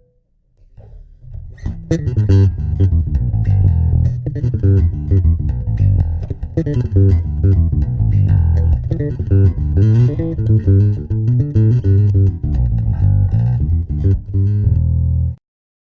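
Electric bass guitar played through an MXR Bass Compressor pedal: a busy run of plucked notes that starts about a second in and stops abruptly near the end.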